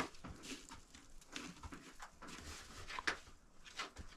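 Faint scattered clicks and rustling in a chicken coop, with chickens moving about quietly.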